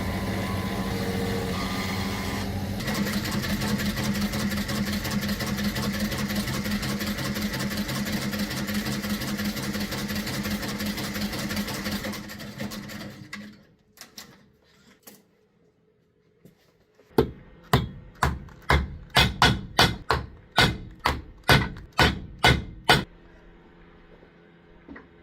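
A shoe-repair workshop machine's motor runs steadily with a fast pulsing beat, then stops. After a short quiet come about fourteen sharp knocks over some six seconds, like a cobbler's hammer striking a shoe.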